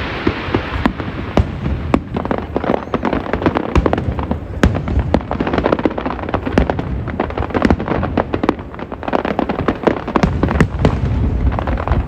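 Aerial fireworks bursting in rapid succession: a dense crackle of many sharp reports over a continuous low booming rumble.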